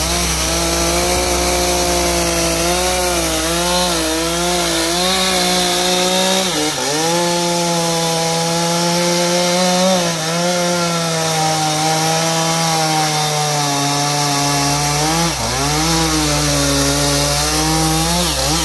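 Chainsaw running at high speed, cutting into an oak trunk; its pitch wavers under load and dips briefly twice.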